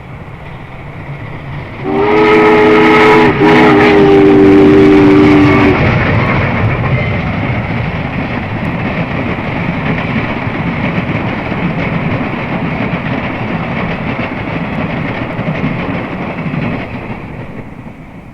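Norfolk and Western class J 4-8-4 steam locomotive No. 611 sounding its chime whistle for a grade crossing. One long blast with a brief break about a second and a half in, then held about two seconds more. The train then passes with a loud steady rumble and clatter of wheels on rail, which fades near the end.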